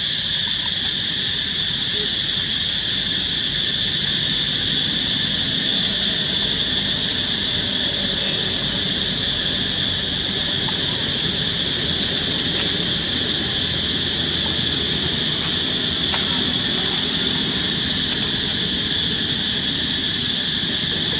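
A steady, high-pitched insect chorus drones on without a break, with a low rumble of background noise underneath.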